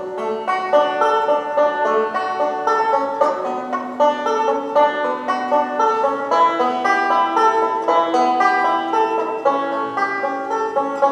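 Instrumental introduction to a folk song, played on a plucked string instrument as a quick, steady run of picked notes that starts abruptly.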